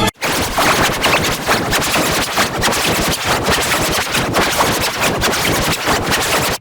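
Harsh, dense crackling noise made of many rapid clicks across the whole range, with no clear tune or steady pitch. It is audio that an effect has distorted into noise.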